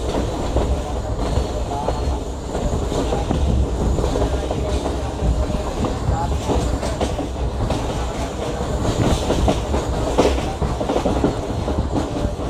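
Moving train heard from on board: a steady rumble of the carriage with wheels clattering over the rail joints.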